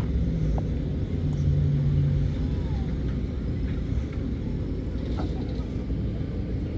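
A motor vehicle engine running with a low rumble, a steady hum standing out of it for about a second near the start.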